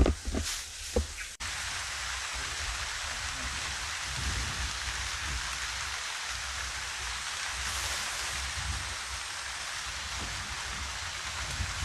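Steady rain falling on the forest canopy, an even hiss. Background music plays during the first second or so and cuts off abruptly.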